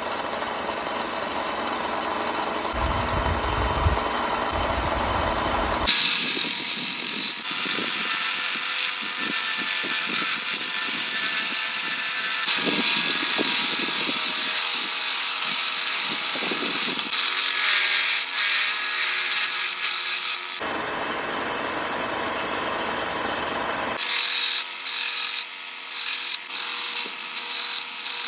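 Rasping and sanding on a new hickory axe handle as it is reshaped to fit the axe head: a steady scraping that changes character several times, then separate back-and-forth strokes, about one or two a second, near the end.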